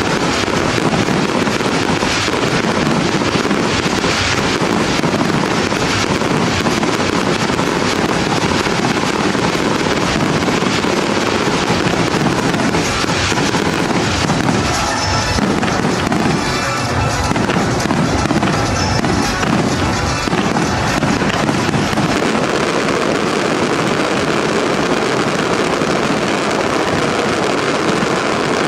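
Fireworks display: a dense, continuous stream of shell bursts and crackle, with music playing underneath.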